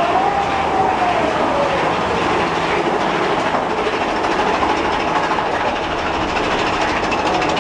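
Amusement-park ride train running on its track, a steady rumble and clatter of the cars, with a faint gliding squeal near the start.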